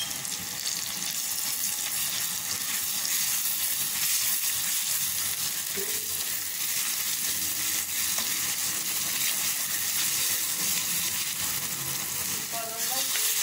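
Softened sliced onions and a freshly added green chilli, ginger and garlic paste sizzling in hot oil in a black kadai, stirred and scraped around the pan throughout with a steady frying hiss.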